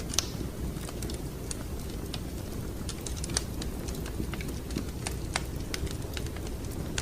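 Wood fire crackling in a fireplace: irregular sharp pops and snaps over a steady low rumble, with one louder pop just after the start and another about halfway through.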